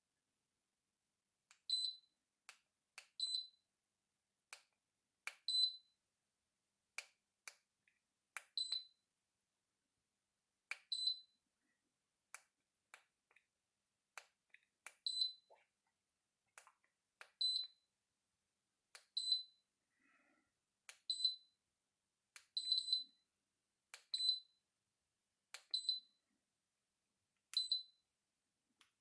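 Electric fireplace control giving a short high beep each time a button is pressed, about every one to two seconds, with sharp button clicks between the beeps, as it is stepped through its flame and lighting modes.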